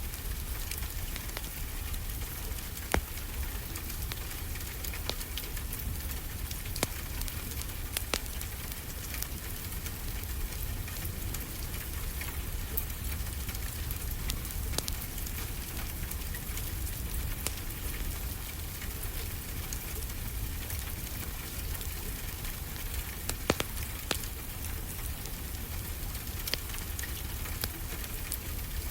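Steady rain hiss mixed with a wood fire crackling, its sharp pops scattered irregularly through the steady noise, two of them louder than the rest.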